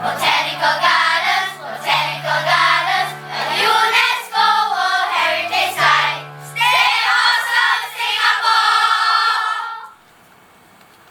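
Children's choir singing together over sustained low keyboard notes. The singing stops about ten seconds in, leaving quiet room tone.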